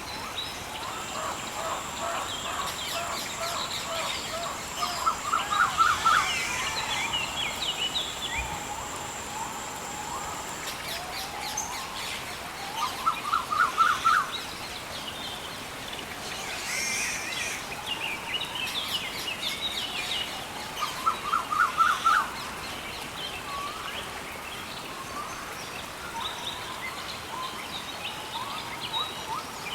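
Rainforest dawn-chorus style ambience: many birds calling and chirping over a soft background hiss. One bird gives a loud, fast series of rising notes about every eight seconds. A thin, steady high whine sounds through the first ten seconds.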